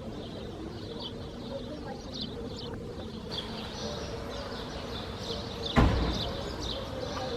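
Small birds chirping again and again against a steady outdoor background. About three-quarters of the way through comes a single sudden loud crack or thump, with a short low rumble that fades within a second.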